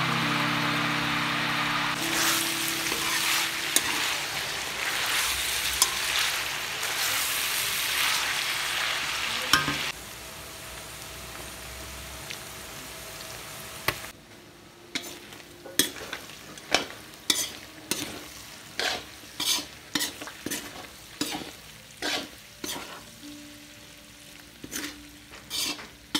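Shredded chicken sizzling and frying in a large wok: a loud, steady sizzle for about ten seconds that then quietens. From about halfway, a metal spatula scrapes and knocks against the pan in repeated stirring strokes, roughly one or two a second.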